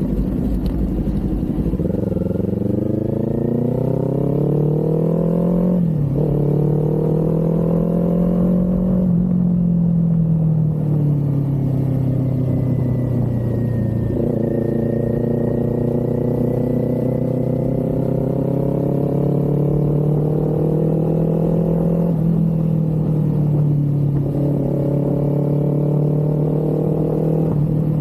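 Kawasaki Z400 parallel-twin engine pulling under acceleration: its pitch climbs, drops sharply at an upshift about six seconds in, climbs again, drops at another shift around fourteen seconds, then holds a steady cruise with a brief dip near twenty-two seconds.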